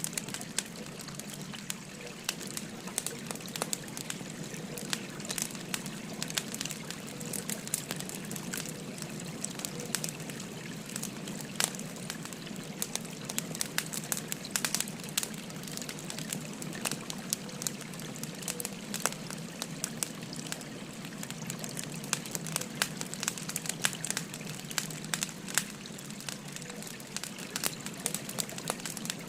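Wood fire crackling with frequent sharp pops, over the steady babbling of a river.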